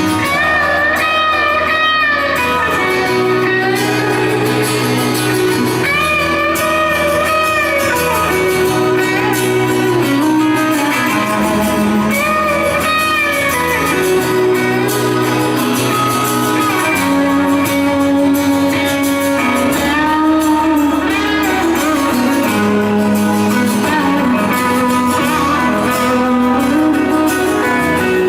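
Live rock band playing through a large arena's PA, led by electric guitar: a melody line with pitch bends over strummed chords and bass, with no singing.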